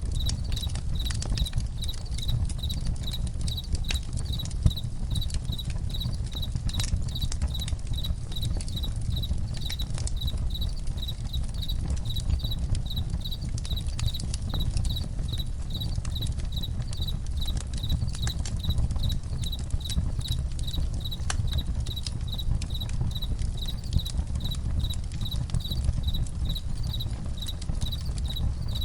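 Campfire crackling with scattered sharp pops over a steady low rumble, while a cricket chirps in an even, unbroken rhythm.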